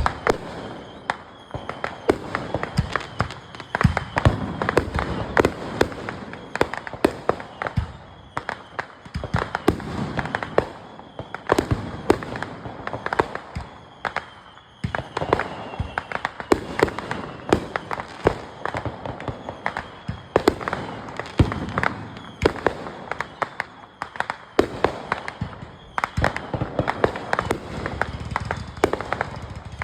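Fireworks and firecrackers going off in dense, irregular succession: a near-constant run of sharp bangs, cracks and pops of varying loudness.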